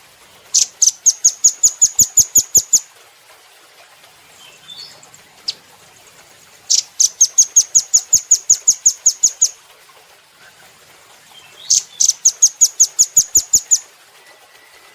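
Velvet-fronted nuthatch singing: three fast, even trills of high notes, about seven notes a second, each trill lasting about two seconds.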